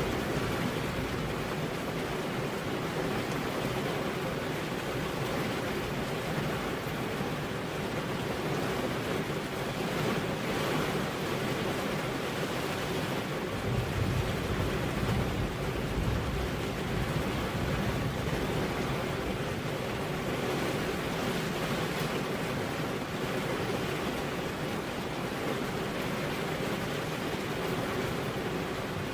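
Steady rain falling, an even hiss with no let-up. A low rumble swells briefly about halfway through.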